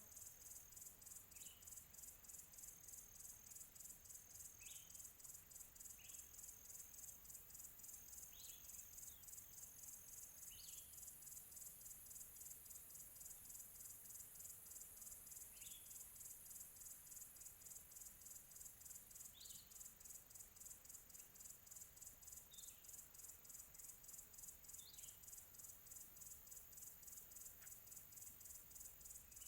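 Faint outdoor chorus: insects keep up a high, evenly pulsing trill, and a small bird gives short single chirps every few seconds.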